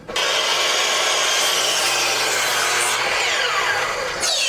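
Miter saw cutting through a long wooden board. A loud, steady cutting whir starts abruptly, and near the end the blade winds down with a falling whine.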